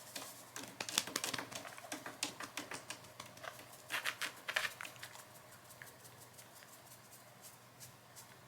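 Pet claws clicking and scrabbling on a hard floor in quick irregular runs, thinning out after about five seconds.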